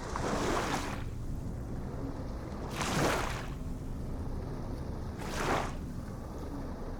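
Ocean waves washing in over a steady low rumble: three short hissing surges about two and a half seconds apart.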